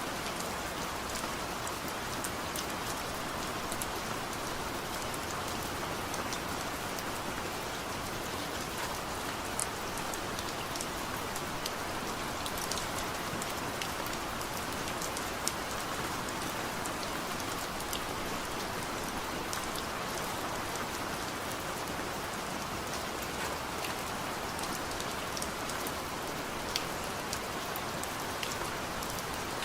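Steady heavy rain falling, a dense even hiss with scattered individual drops ticking on a hard surface.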